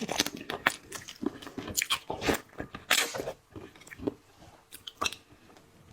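Close-up crunching and chewing of seafood, an irregular run of sharp crisp cracks with softer wet chews between them.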